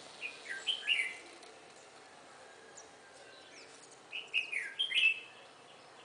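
A bird calling in two short phrases of quick chirps, the second about four seconds after the first, each note sliding down in pitch.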